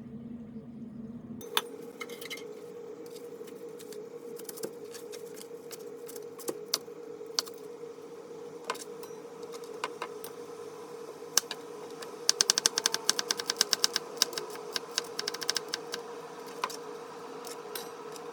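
Kitchen prep sounds: scattered light clicks and taps of utensils, then a quick run of rapid tapping for a few seconds near the middle-to-end, over a steady hum.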